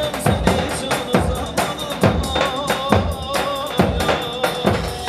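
Live Turkish wedding band playing halay dance music: an electronic keyboard melody over a steady drum beat.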